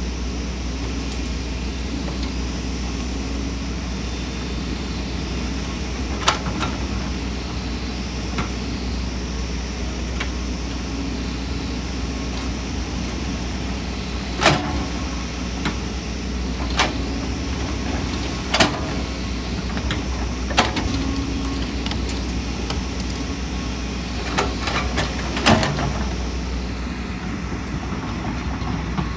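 Excavator's diesel engine running steadily under load, with sharp metallic clanks every few seconds, most of them in the second half.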